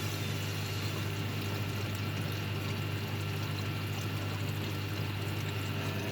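Water pouring and splashing steadily inside a Hoover Baby washing machine during its first rinse, over a constant low hum.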